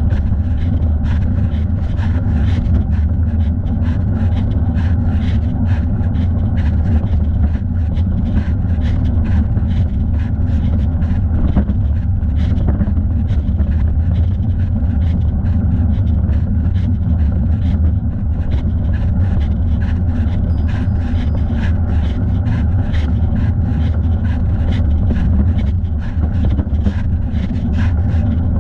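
Steady wind rumble on the microphone of a camera strapped to a rider's thigh while cycling, with a fast, regular ticking over it.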